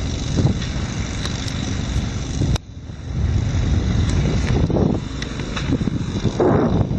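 Wind buffeting the microphone, an uneven low rumble, broken by a sharp click about two and a half seconds in, after which the rumble dips and then returns.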